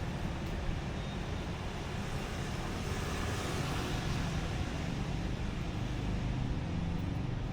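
Street traffic on a rainy road: a steady hiss with a low rumble underneath.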